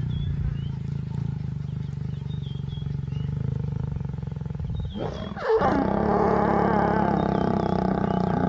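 Lions growling while mating: a low, rumbling growl, then about five seconds in a sudden, louder and higher snarl that carries on.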